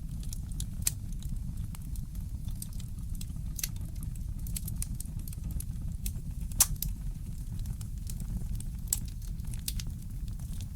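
Fireplace fire crackling: irregular sharp pops and snaps, the loudest about two-thirds of the way through, over a steady low rumble.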